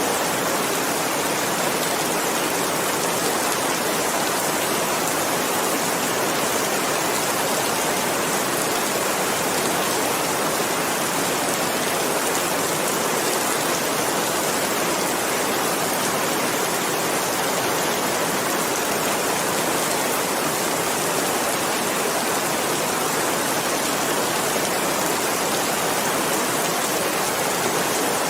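Steady, continuous rainfall: an even hiss of rain with no separate drops standing out.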